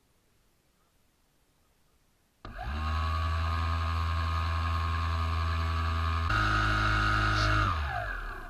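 Small RC boat motor starting abruptly and running at a steady speed, stepping up to a higher pitch about four seconds later, then winding down with a falling pitch near the end.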